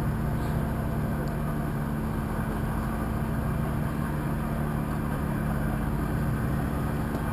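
Jeep Wrangler engine running steadily at low revs, with an even note that does not rise or fall.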